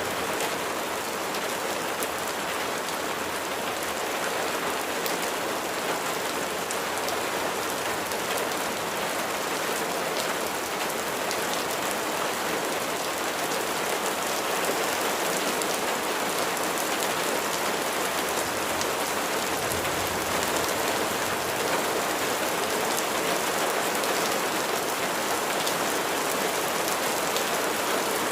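Steady rain falling, a dense even hiss of drops with many small ticks of individual drops landing.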